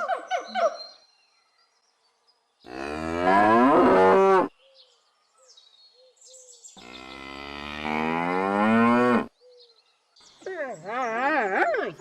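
A cow mooing: two long, low calls a couple of seconds apart, the second a little longer. A rapid string of short repeated calls from another animal is just ending at the start, and a different animal's call with a wavering pitch begins near the end.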